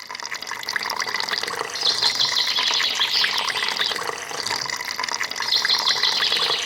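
Water splashing and trickling steadily in a small stream, with many fine droplet ticks.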